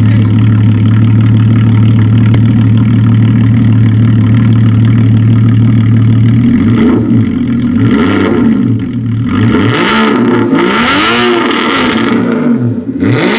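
Porsche 981 Cayman's flat-six engine running through a freshly fitted straight-pipe cat-back exhaust with an X-pipe. It idles steadily, then from about six and a half seconds in it is revved in a quick series of throttle blips, the pitch rising and falling each time.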